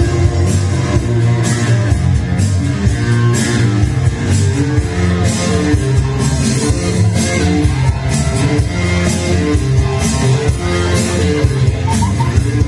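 Rock music with electric guitar and a drum kit playing an instrumental passage, with no singing.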